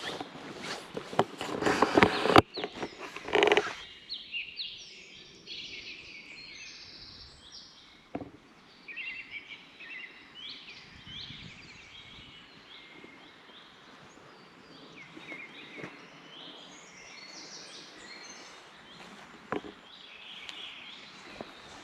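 Footsteps on a forest trail for the first few seconds, then they stop and small songbirds chirp and twitter continuously, with an occasional soft knock.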